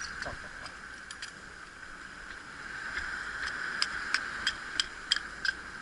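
A hammer striking a metal piton being driven into a crack in the rock: about seven sharp, ringing blows, roughly three a second, starting a little past halfway, over a steady hiss of sea and wind.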